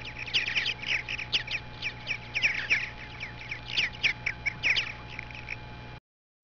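A flock of birds calling at once, a busy chatter of many short chirps and squawks over a faint steady hum; it cuts off abruptly near the end.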